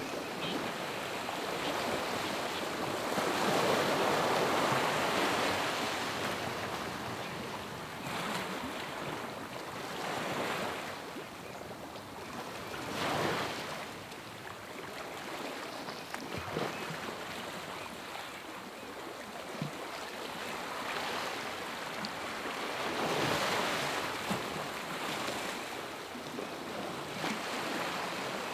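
Ocean surf: waves breaking and washing in continuously, swelling and ebbing every several seconds.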